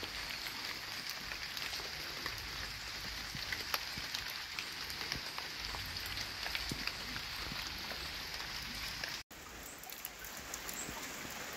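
Rain pattering: a steady hiss with many scattered drop ticks. It drops out for an instant about nine seconds in, then resumes.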